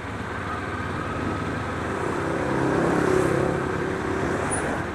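Kawasaki Ninja 400's parallel-twin engine running during a ride in traffic, with steady wind and road noise. About halfway through, an engine note grows louder for a second or so and then fades.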